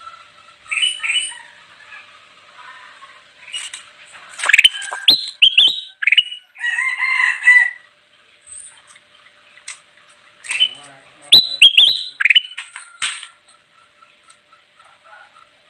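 Ruby-throated bulbul (kutilang emas) singing in lively bursts: short chirps and quick whistled notes in separate phrases, with a longer warbling phrase about halfway through.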